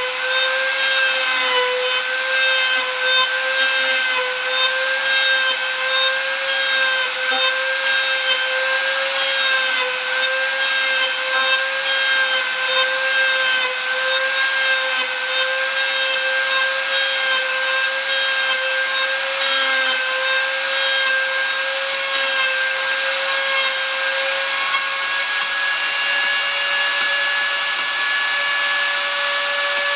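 An electric woodworking power tool runs continuously with a steady motor whine while cutting or abrading white oak, with a rasping texture over it. About 24 seconds in, the rasping fades and the whine's pitch rises slightly.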